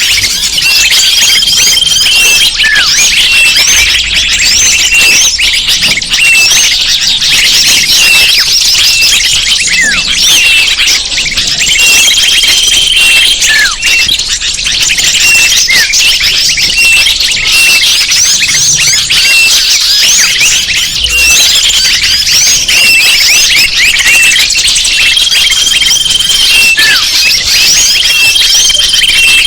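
A dense, loud chorus of many small birds chirping and twittering at once in a high register. A steady held whistle recurs several times among the chirps. This is a bird-lure (pikat) call recording, played to attract wild birds.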